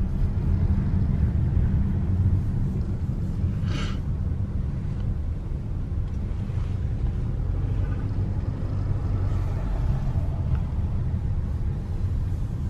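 Steady low rumble of a car driving, heard from inside the cabin, with a short high sound about four seconds in.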